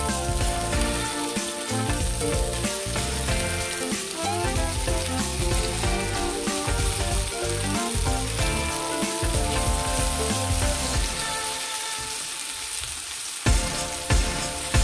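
Flour-dredged chicken breasts sizzling steadily as they fry in butter and oil in a pan. A couple of sharp knocks near the end come as tongs turn the pieces.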